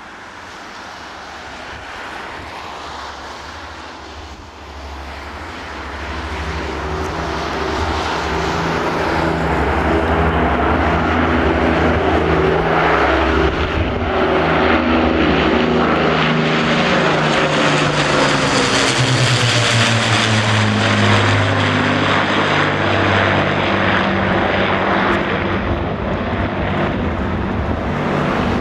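Avro Lancaster bomber's four Rolls-Royce Merlin piston engines droning in a flypast: the sound grows louder over the first ten seconds as it approaches, then the engine note drops in pitch about two-thirds of the way through as it passes.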